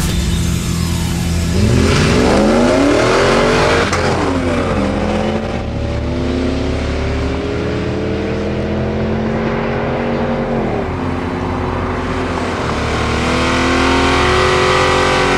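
Cars accelerating hard off a drag-race start, the engine note climbing through the gears with sharp drops at the shifts about four and ten seconds in. Near the end a V8 muscle car's engine revs up while it spins its rear tyres in a smoking burnout.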